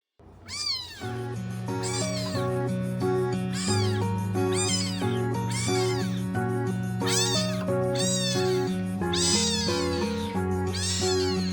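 A rescued kitten meowing over and over, about once a second, each cry rising and falling, over background music with sustained notes.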